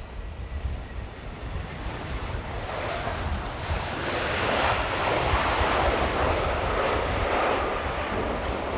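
Airbus A319 jet engines on landing approach, the roar growing louder over the first four seconds and then holding. Gusting wind rumbles on the microphone underneath.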